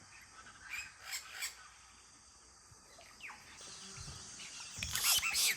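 Wild birds calling: a few short chirps, then a single falling whistle, with louder, denser calling and noise building near the end.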